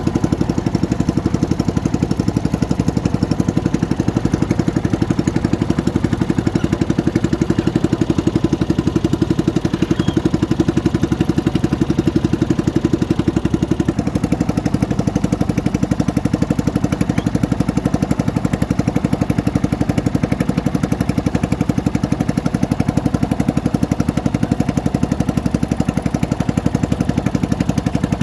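Small boat engine running steadily at an even speed, close to the microphone; its sound changes slightly about halfway through.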